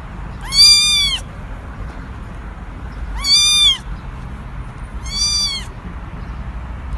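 A cat meowing three times, about two seconds apart, each meow a high call that rises and falls in the same way.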